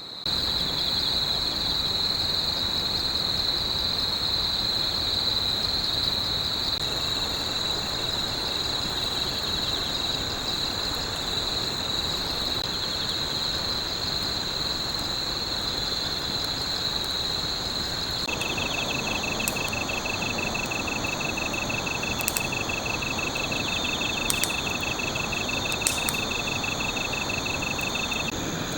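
Night insects trilling steadily in high tones over a steady hiss, a second rapidly pulsing trill joining about two-thirds of the way in, with a few sharp clicks in the later part.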